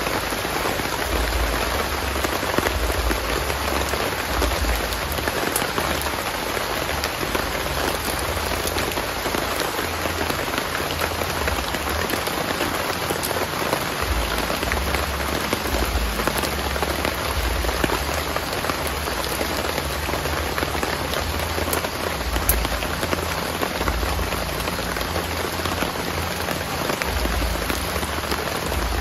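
Heavy rain falling steadily: a dense, even patter of drops with no letup.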